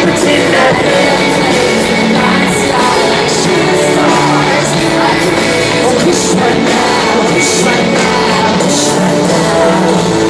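Loud live concert music with singing, a band or backing track playing on continuously with steady cymbal strokes.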